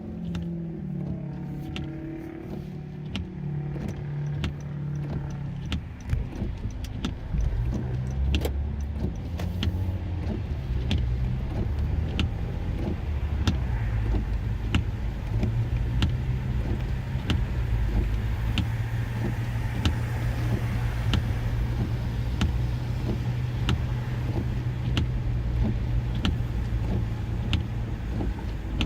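A motor vehicle's engine running, its pitch shifting in the first few seconds and then holding steady, with sharp ticks about twice a second.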